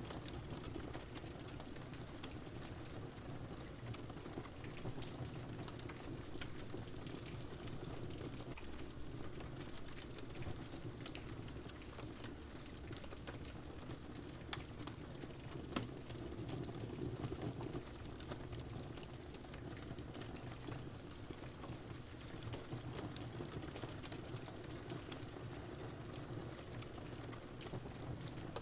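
Wood fire crackling with scattered small pops over a steady patter of rain. One sharper pop comes just before the middle.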